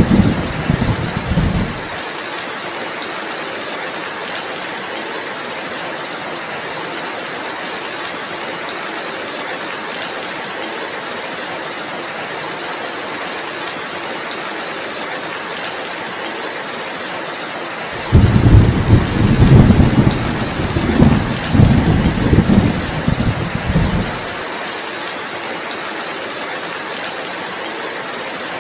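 Steady heavy rain, with a rumble of thunder dying away about two seconds in and another long roll of thunder from about eighteen seconds in, lasting about six seconds.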